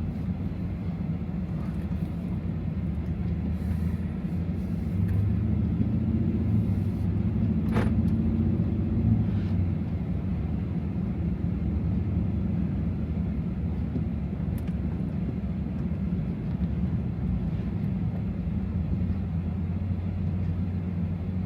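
The supercharged 6.2-litre Hemi V8 of a 2024 Ram TRX running under way, with a steady low drone of engine and road noise that swells for a few seconds about a third of the way in, then settles. A single short click near the middle.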